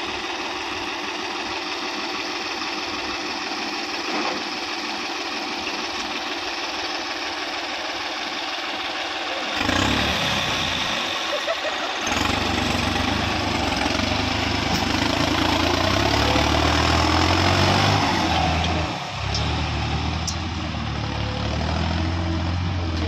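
Diesel tractor engine running, turning much louder and deeper about ten seconds in and then running steadily.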